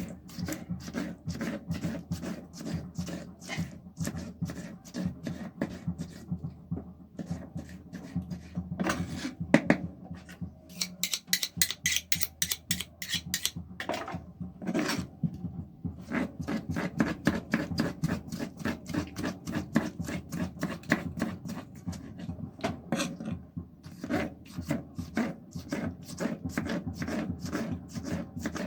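Kitchen utensils knocking and scraping in a rapid, uneven run of several strikes a second, with a harsher scratching stretch in the middle.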